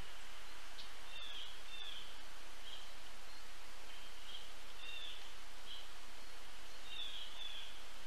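Steady outdoor hiss with about eight short, high chirps of small birds calling.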